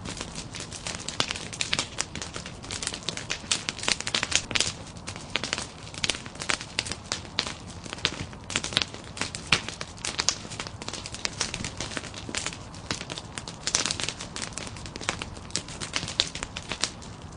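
Nodya log fire crackling: a continuous run of irregular sharp cracks and pops from burning logs.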